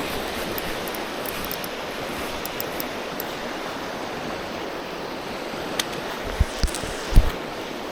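Steady rush of river water flowing over rocks, with a few short low thumps near the end.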